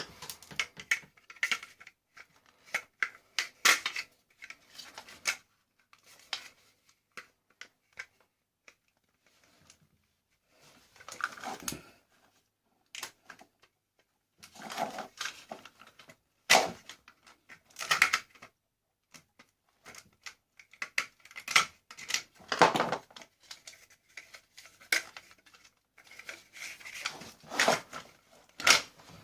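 Hard plastic and metal parts of a vacuum cleaner clicking, knocking and scraping as it is taken apart by hand, in irregular clusters with short pauses.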